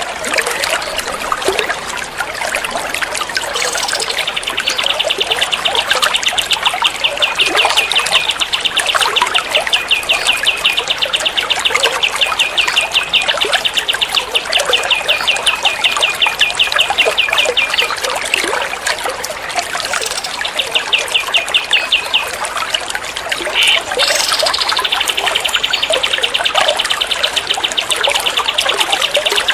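A songbird's fast, rattling trill of evenly repeated high notes, running in two long stretches with a short break near the end, over the steady trickle of running water.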